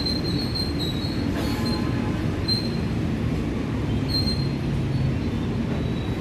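A train rolling through the station with a steady low rumble. Its wheels give short high-pitched squeals in the first second, again about two and a half seconds in, and again around four seconds in.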